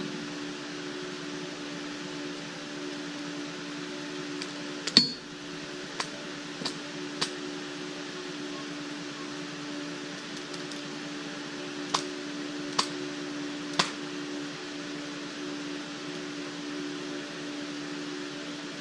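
Steady machine hum in a small workshop, with about seven sharp clicks and taps from parts being handled, the loudest about five seconds in and three more close together near two-thirds of the way through.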